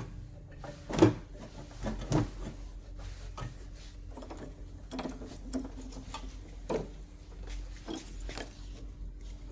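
Irregular clicks and knocks of alternator parts and tools being handled during reassembly, the loudest knock about a second in, over a steady low hum.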